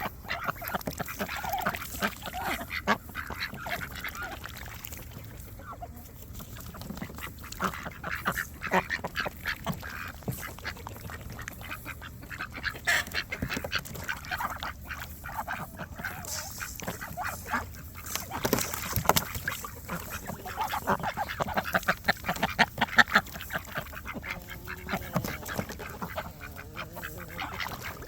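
Domestic ducks quacking over and over, several birds calling at once in a dense, continuous chorus.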